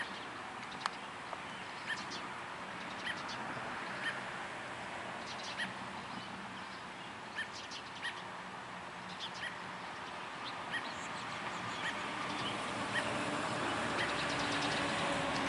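Songbird chirping outdoors: short, sharp chirps repeated about once a second, over a steady background hiss that grows louder over the last few seconds.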